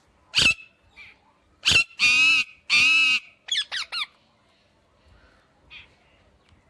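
Parrot calling: a sharp chirp, another a little over a second later, then two loud, harsh, drawn-out calls in quick succession and a quick run of short chirps.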